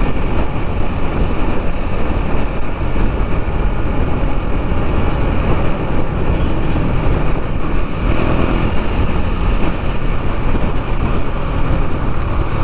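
Riding noise from a KTM Duke 390 on the move: a steady rush of wind on the microphone over the single-cylinder engine running at cruising speed.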